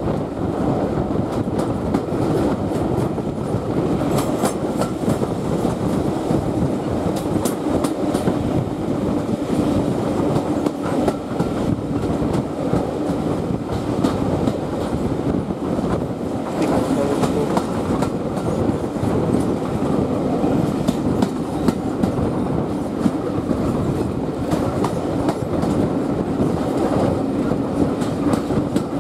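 Railway carriage running along the track, heard from an open window: a steady rumble of wheels on rail, with clicks over the rail joints here and there.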